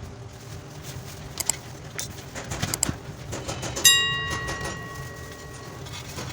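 Small handling clicks and taps over a low steady hum, and about four seconds in a single sharp metallic strike that rings with several clear tones and dies away over about two seconds.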